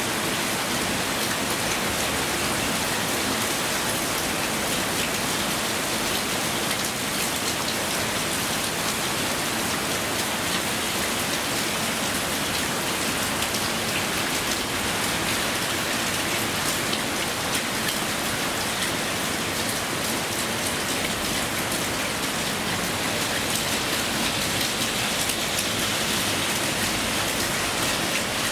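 Heavy rain falling steadily, a dense downpour hissing and pattering without let-up.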